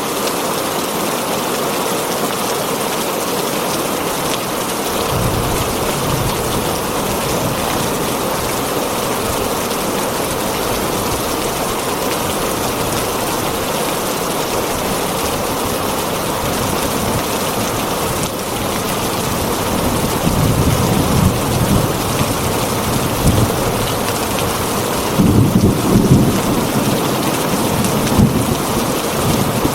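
Heavy rain drumming steadily on a tin roof, with low rolls of thunder about five seconds in, again around twenty seconds in, and loudest near the end.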